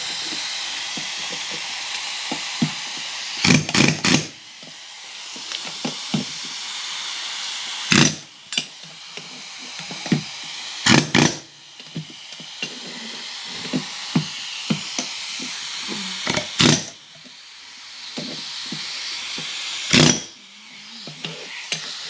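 Sharp metal strikes, three in quick succession about three and a half seconds in, then single or paired blows every few seconds, over a steady hiss with scattered small clicks. These are plausibly blows driving a wheel-bearing race out of a brake hub.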